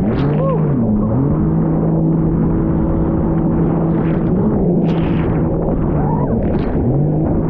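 Jet ski engine running at a steady pitch under a dense rushing noise. The revs dip briefly and climb back about a second in, and again near the end.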